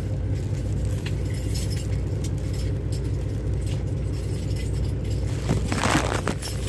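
Pickup truck's engine running with a steady low hum, heard from inside the cab. About five and a half seconds in comes a brief rustle and clatter.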